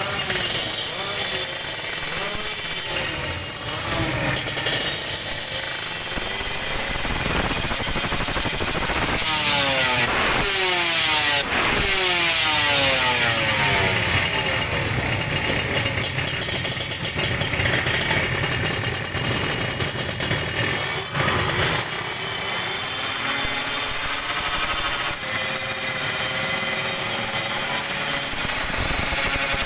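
Two-stroke racing motorcycles revving hard and passing one after another. Engine pitch sweeps up and falls away as bikes go by, with the most bikes together around ten to thirteen seconds in.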